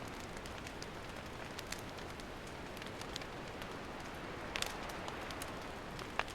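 Wood campfire burning: a steady hiss with frequent small crackles and pops, a short cluster of louder pops a little past halfway and one sharp pop near the end.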